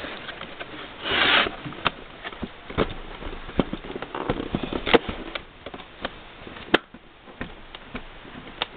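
Product box being opened by hand: scattered clicks, taps and rubbing of cardboard and plastic packaging, with a short rushing rip about a second in and another around the middle.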